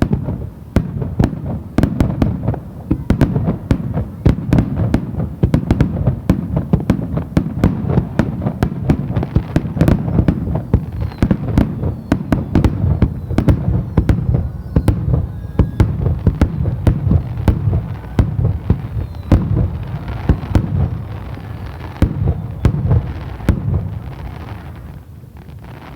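Aerial fireworks display: a dense, rapid barrage of shell bursts, several bangs a second, easing off near the end.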